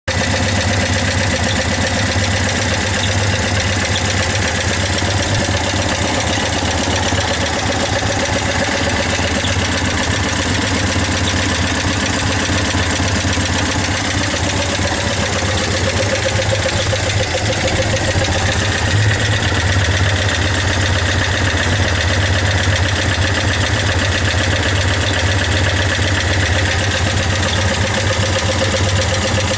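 A 230 engine idling steadily, an even hum with no revving.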